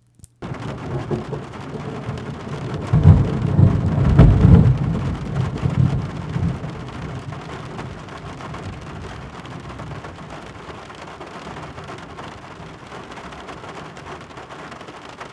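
Thunderstorm: steady rain with a rolling rumble of thunder about three seconds in, loudest over a couple of seconds and then dying away while the rain continues.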